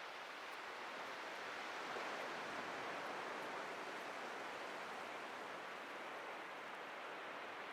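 Atlantic surf washing on a beach: a continuous hiss of breaking waves that swells slightly about two seconds in and then eases back.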